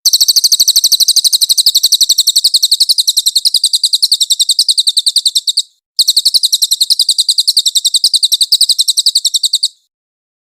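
Cililin songbird singing a long, fast 'nembak' trill of sharp, high repeated notes, about eight a second, in two runs broken by a short pause about six seconds in.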